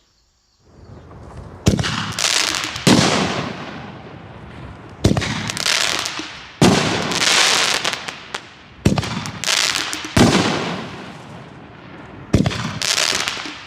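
Consumer 60-gram canister firework shells going off one after another. About eight sharp bangs come in rough pairs, each trailed by a long crackling hiss from the crackling-mine effect.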